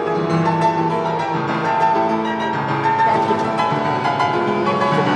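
Piano playing a melody over held chords.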